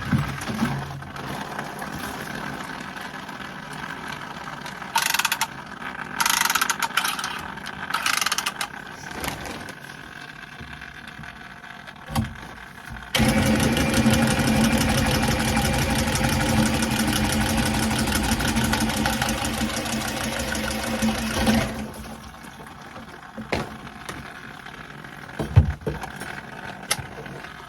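Cordless Milwaukee copper tubing cutter running steadily for about eight seconds as it cuts through copper water pipe. It starts abruptly about halfway through and stops a few seconds later. Earlier there are a few short handling noises.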